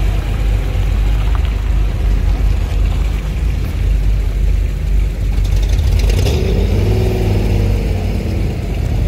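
Chevrolet Corvette V8 engines running at low speed as the cars roll past one after another, a steady low rumble. About six seconds in, an engine note rises and wavers over the rumble.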